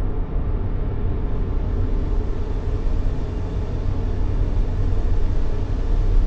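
Steady, unbroken white-noise sleep track for soothing a baby, weighted to a low rumble with a softer hiss on top.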